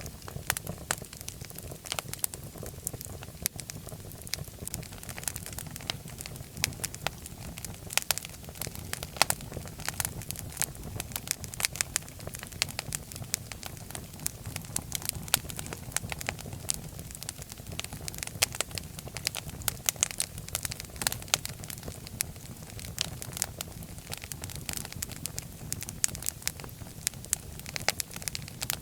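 Fireplace fire crackling, with frequent irregular sharp pops over a steady low rumble of flames.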